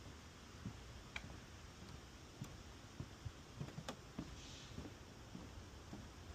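Footsteps on a wooden boardwalk: soft, faint thuds at walking pace, with a few sharp clicks from the boards.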